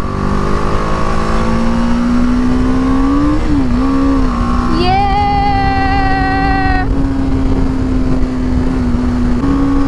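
BMW naked motorcycle's engine heard from the rider's seat over wind noise. Its pitch rises for about three seconds, dips briefly as it changes gear, then holds steady. About halfway through, a steady high tone sounds over it for about two seconds.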